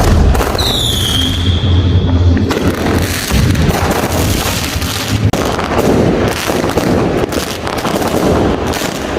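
Fireworks and firecrackers going off in a dense run of bangs and crackles. A whistle starts about half a second in and falls slightly in pitch for about two seconds.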